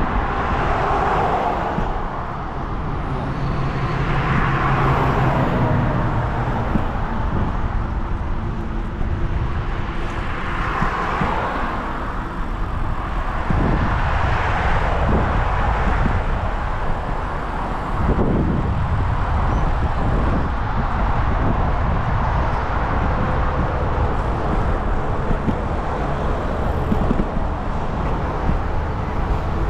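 Wind buffeting the microphone of a moving bicycle, a constant rumble, with road traffic passing: several vehicles swell up and fade away.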